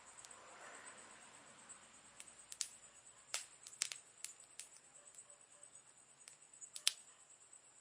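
Wood campfire crackling: irregular sharp pops and snaps, the loudest about seven seconds in, over a faint steady high-pitched tone.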